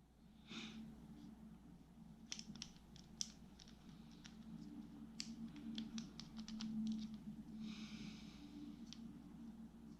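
Faint scattered clicks and light taps of a spinning reel's small parts being handled during disassembly, with a couple of soft rustles and a low steady hum underneath.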